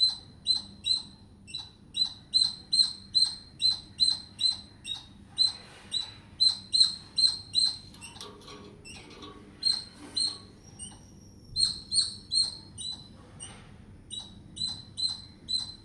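Squirrel calling in a long run of short, sharp, high-pitched chirps, about three a second, broken by a couple of brief pauses before the chirping picks up again.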